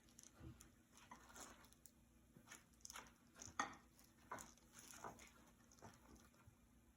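Faint, scattered soft taps and pats of a raw chicken breast piece being pressed and turned in a bowl of flour, the loudest about three and a half seconds in.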